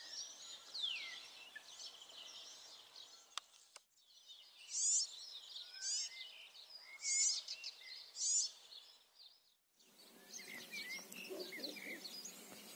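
Wild birds singing and chirping, a mix of short whistles and chirps. In the middle one bird repeats a short high phrase four times, about a second apart, louder than the rest. The sound breaks off abruptly twice, about four and ten seconds in.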